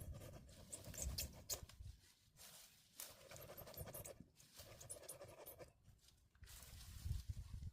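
Hand saw cutting, a series of sawing strokes with short pauses between them.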